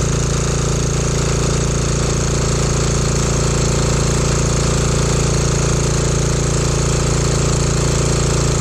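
Small single-cylinder 196cc 168F-type diesel engine driving a generator, running steadily at constant speed under a max-load test while burning used 5W40 motor oil as fuel.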